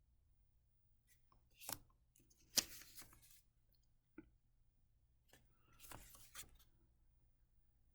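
Faint rustles and taps of paper sight-word cards being handled and flipped, several short sounds with the sharpest about two and a half seconds in.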